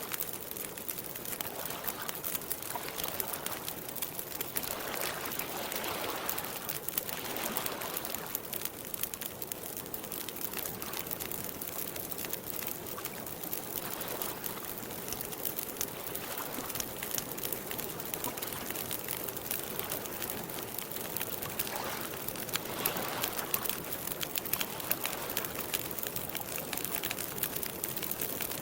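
Campfire crackling steadily, with lake water lapping at the shore in soft swells every few seconds.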